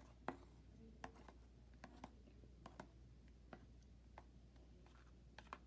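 Near silence broken by faint, irregular clicks and small taps, about a dozen of them: a utensil stirring a glue and shaving-gel slime mixture in a bowl.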